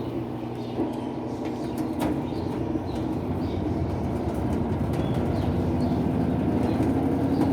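Electrolux LTE12 top-load washing machine spinning, a steady hum that grows slowly louder. It runs quietly and smoothly, its bearings, seal, spin tube and shaft newly replaced.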